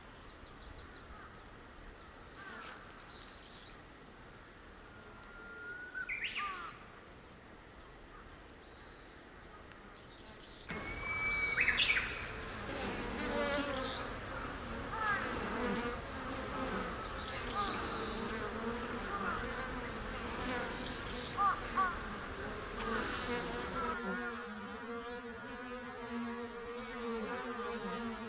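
Bees buzzing close by, a steady hum that is clearest near the end. Birds chirp throughout, and a steady high-pitched insect drone runs through the middle stretch.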